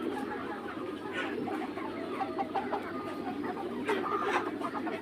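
A flock of young Mía chickens clucking, with many short calls scattered throughout over a steady low background hum.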